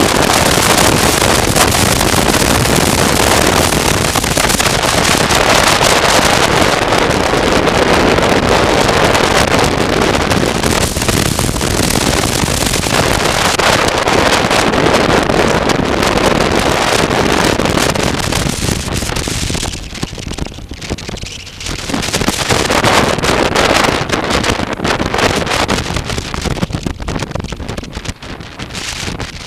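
Loud wind rush on the microphone from a moving motorcycle, with the motorcycle running underneath. It eases briefly about twenty seconds in and fades near the end as the bike slows.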